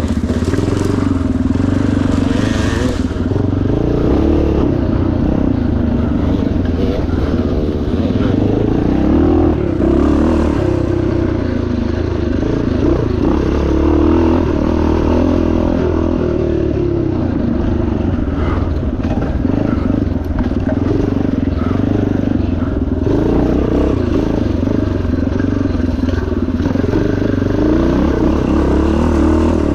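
Yamaha TT500's single-cylinder four-stroke engine running hard, its revs constantly rising and falling as the rider works the throttle, with scattered knocks and rattles from the bike over rough ground.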